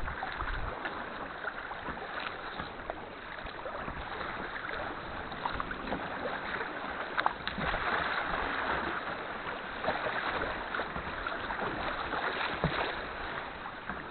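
Sea kayak being paddled: a steady wash of water around the hull, with scattered splashes and drips from the paddle blades.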